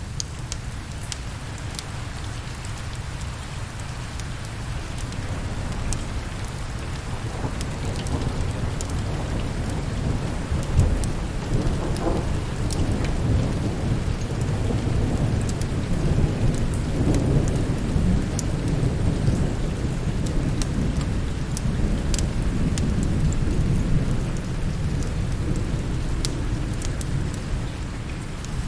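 Steady rain with rolling thunder: a low rumble builds about a quarter of the way in and stays heavy for most of the rest. Scattered sharp crackles from a fireplace fire sound over it.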